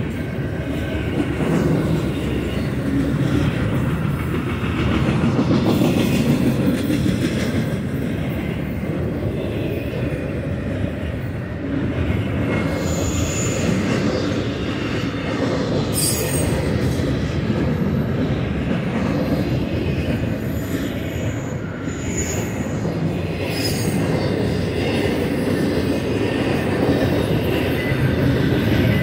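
Loaded double-stack intermodal well cars rolling past: a steady rumble of steel wheels on rail. Brief high wheel squeals come a couple of times, and there is a sharp click about halfway through.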